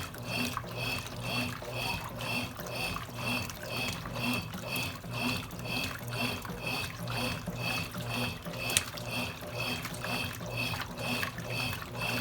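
Consul Cargo 8 kg top-load washing machine running with water sloshing inside, in a regular pulse about three times a second over a steady low hum.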